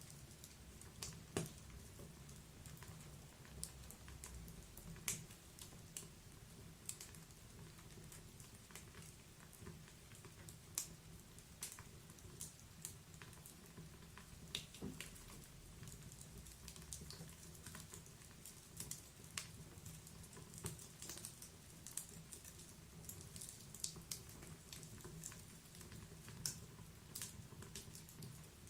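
Wood fire crackling in a fireplace: irregular sharp snaps and pops over a faint low rumble.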